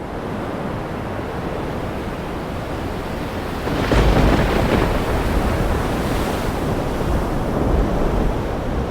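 Steady rain falling in a forest, a dense hiss. About four seconds in it grows louder, with a deep low rumble underneath.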